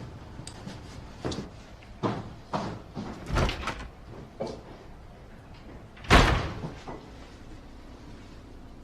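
Several light knocks and clunks, then a door shutting firmly about six seconds in, the loudest sound here.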